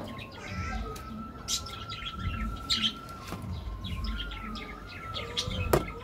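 Birds chirping in the background, with a sharp click near the end.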